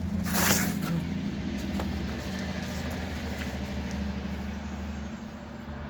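A vehicle engine running steadily with a low hum, with a brief hiss about half a second in.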